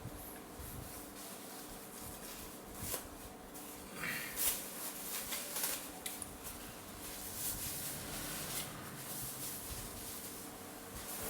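Quiet eating sounds: scattered light clicks and rustles of a spoon and chopsticks handled in a soup bowl, over a faint steady hum.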